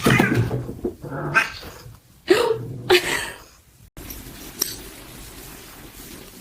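A cat yowling: four loud cries in the first three seconds, then quieter background noise.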